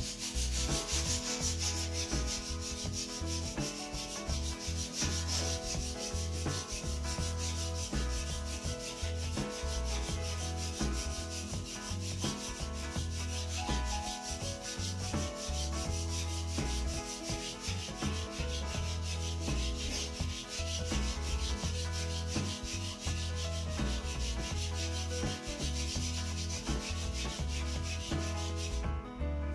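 Sandpaper rubbing steadily along a new wooden snooker cue shaft, a continuous hiss that stops shortly before the end.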